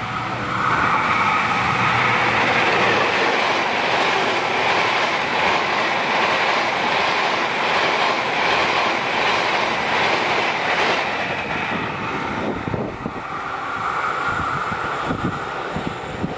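A locomotive-hauled passenger train passing close by: a steady loud rush of wheels on rail. Clickety-clack comes through mid-way, then spaced clacks of wheels over rail joints near the end.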